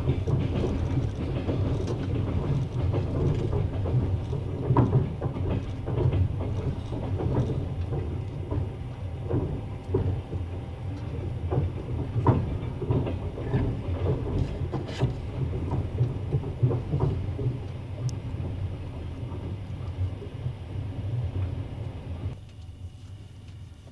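Passenger train running, heard from a carriage window: a steady low rumble of the wheels with irregular knocks and clatter over rail joints and points. Near the end the sound drops suddenly to a quieter, duller rumble.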